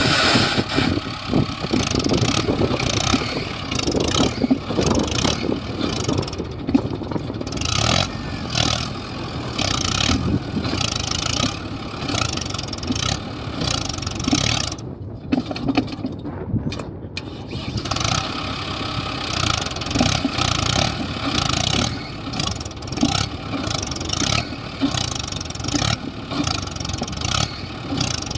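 Diesel engines of a farm tractor and a JCB machine running, the loudness rising and falling, with frequent short knocks and clatter.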